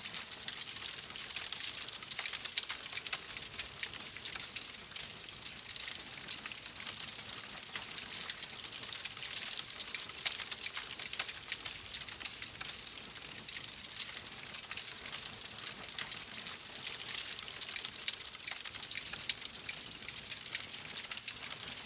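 Wood fire crackling: a dense, irregular stream of small sharp pops and snaps over a steady hiss, with no pauses.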